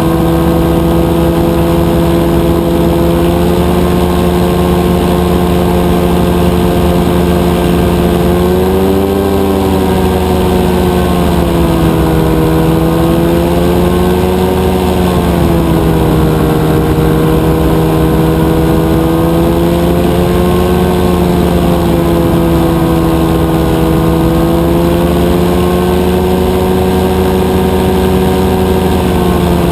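Rotax 582 two-stroke, two-cylinder engine of a powered parachute running steadily in flight, its pitch rising and falling a little twice with throttle, near a third of the way in and again around the middle.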